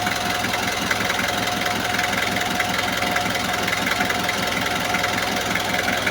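Kia Bongo diesel engine idling steadily with an even diesel knock, just restarted. It now starts readily, the hard starting and white smoke cured after the fuel system was bled.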